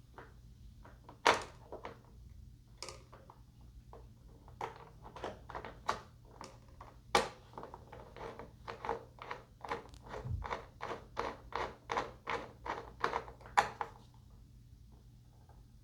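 Scattered light knocks and clicks of parts being handled during assembly, then a quick, fairly regular run of about three clicks a second for several seconds, ending near the end.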